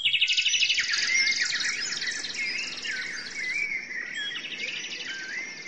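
Birdsong: several birds chirping, with fast trills and short swooping whistled notes.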